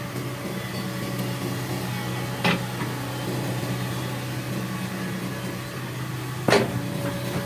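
Hitachi Zaxis 110 excavator's diesel engine running steadily, with two sharp knocks about four seconds apart.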